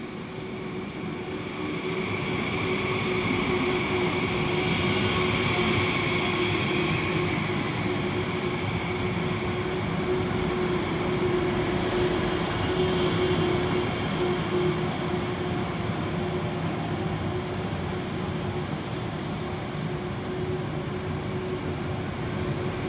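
Frecciarossa 1000 (ETR400) high-speed electric train running along an underground platform: steady rolling noise with a constant hum and a higher whine from its electrics, growing louder over the first few seconds as it comes close and then holding.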